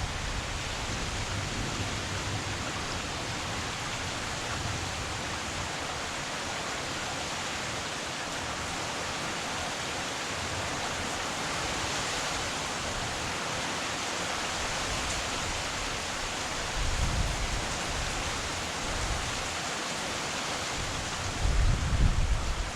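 Heavy rain falling steadily, a dense even hiss, with two brief bursts of low rumble, one about two-thirds of the way through and one near the end.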